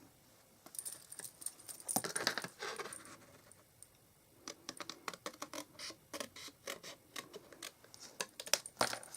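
Card stock being handled and trimmed on a craft desk: a run of small clicks, taps and scratches, with a short lull about three seconds in before they pick up again.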